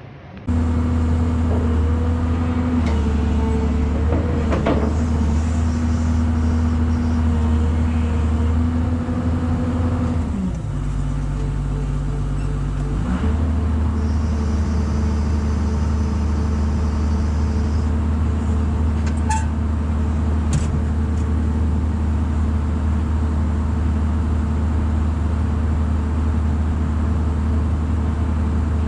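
Heavy machine's engine running steadily at speed. It drops lower for about two seconds near the middle, then picks back up. A few light clicks sound over it.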